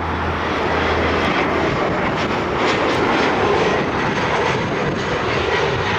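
Arriving jet airliner on approach, passing close: a loud, steady rush of engine and air noise with a faint high whine.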